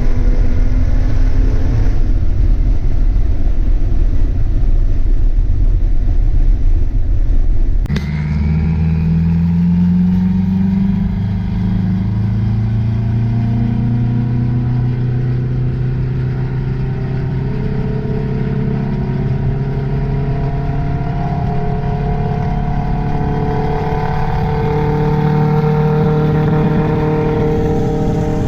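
Car engine running under load with a heavy low rumble. After an abrupt change about eight seconds in, the engine's tones hold steady and climb slowly in pitch as it pulls.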